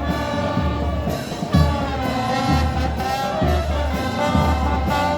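Brass band playing, with horns carrying the tune over a steady low beat.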